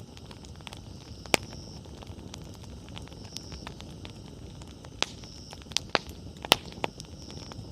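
Wood campfire burning with a low, steady rustle and sharp crackles and pops from the burning firewood: one loud pop about a second in, then a cluster of several between about five and seven seconds, the loudest near the end of that cluster.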